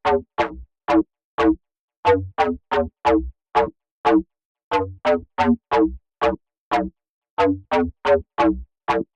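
Synthesized plucked club bass from Arturia Pigments, a sine wave reshaped by FM, an envelope-driven low-pass filter and distortion, playing a repeating riff of short notes. Each note starts bright and quickly darkens and dies away, with short silences between the notes.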